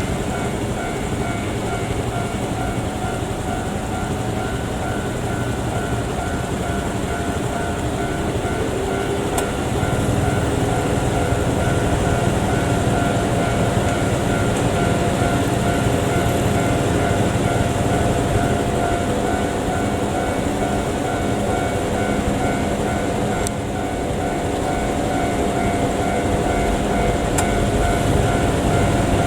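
Electric train running past a railway level crossing: a continuous loud rumble and rail noise, getting louder about ten seconds in, with steady ringing tones from the crossing alarm above it.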